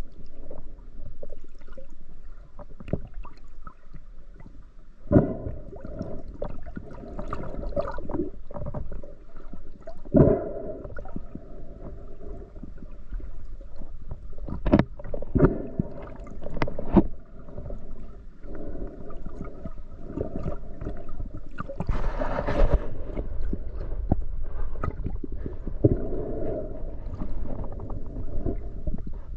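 Muffled underwater sound from a camera in a waterproof housing during a spearfishing dive: water rushing and gurgling against the housing, with scattered sharp knocks and a louder burst of bubbling about two-thirds of the way in.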